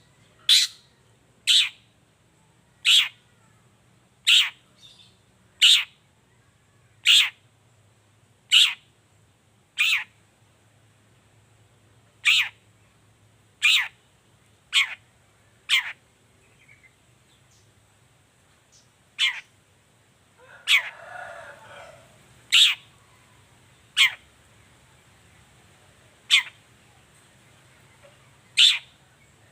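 Long-tailed shrike (cendet) giving a string of short, sharp calls that sweep quickly downward, roughly one every second or so with a few longer pauses. About two-thirds of the way through there is one harsher, noisier call.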